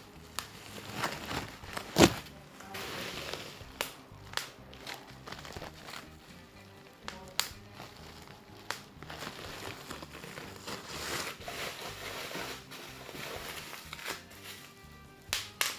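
Irregular crinkling and rustling with scattered sharp clicks and taps, and one loud knock about two seconds in.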